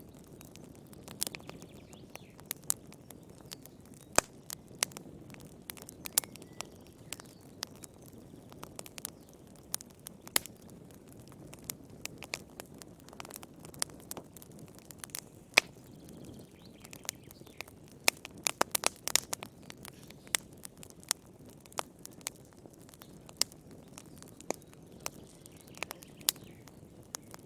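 Wood campfire crackling: a low steady rush of burning with irregular sharp pops, and a quick flurry of pops about two-thirds of the way through.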